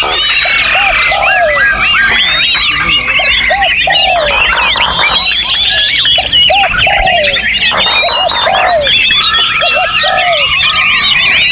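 Many songbirds singing at once in a dense chorus of overlapping whistles, trills and chirps. A lower, rounded note recurs every second or two beneath the higher song.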